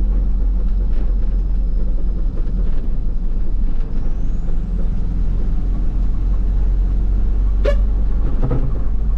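Car engine and road noise holding steady as the car cruises in fifth gear, a continuous low rumble. Two brief sharp sounds come near the end.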